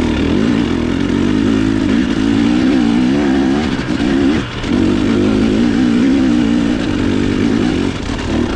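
Dirt bike engine running hard under load, its pitch wavering up and down with the throttle, with a brief drop in engine sound about four and a half seconds in.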